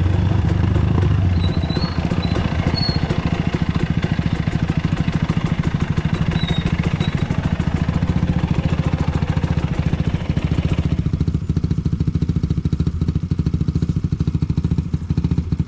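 Dirt bike engine running at low revs with a steady, even putting beat. Partway through the higher-pitched noise falls away, leaving mostly the engine's low thump.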